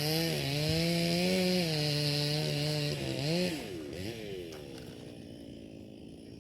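A small engine running at high revs, its pitch wavering, then dropping away and fading after about three and a half seconds.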